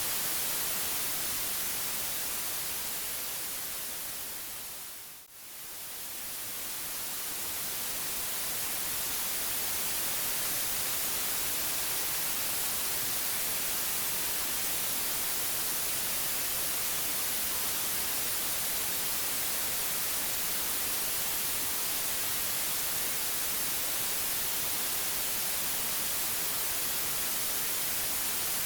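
Steady white noise, an even hiss strongest in the highs. About five seconds in it fades down to a brief dip and swells back up over several seconds.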